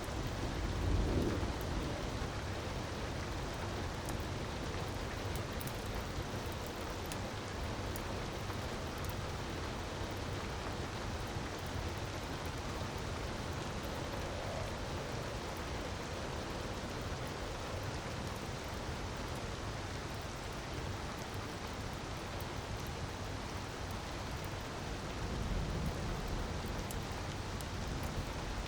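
Steady rushing of falling water, with faint fire crackles scattered through it. A low rumble swells about a second in and again near the end.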